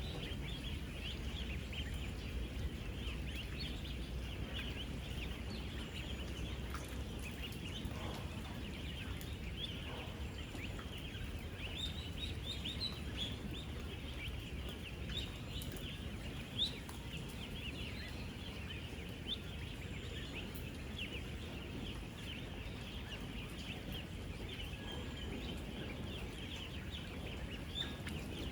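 A huge flock of ten-day-old domestic ducklings peeping nonstop, many short high peeps overlapping into one continuous chorus over a steady low rumble. A single brief knock sounds about halfway through.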